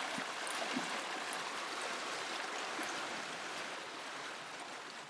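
Sea water rushing and splashing past a sailing yacht's hull as it moves through open ocean, fading gradually near the end.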